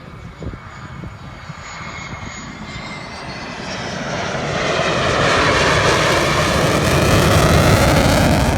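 Panavia Tornado's twin turbofan jet engines rushing and growing steadily louder as the jet approaches, loudest from about five seconds in. A faint whine slowly falls in pitch.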